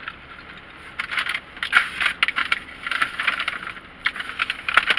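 Crinkling and rustling of a burger's foil-lined paper wrapper being handled and opened, as a run of quick crackles starting about a second in.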